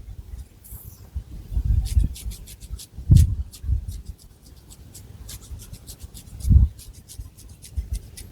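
Long fingernails scratching and rubbing through hair on a scalp: many short crackly scratches, with a few dull low thumps, the loudest about three seconds in and again past six seconds.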